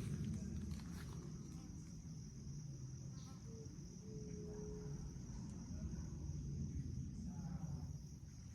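Crickets trilling steadily in a high, continuous band over a constant low rumble, with a brief faint low tone near the middle.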